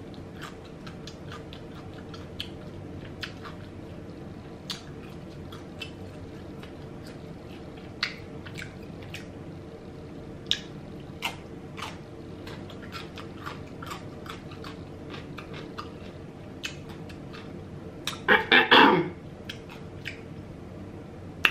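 Close-miked mouth sounds of eating: chewing, with small wet clicks and smacks, as seafood and cucumber slices are eaten. A steady low hum runs underneath, and a louder burst of mouth or voice sound comes about three seconds before the end.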